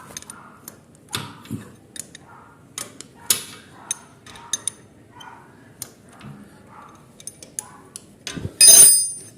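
Scattered metallic clicks and light knocks of a wrench working a motorcycle engine's oil drain bolt, then a louder metal clang with a brief ringing near the end.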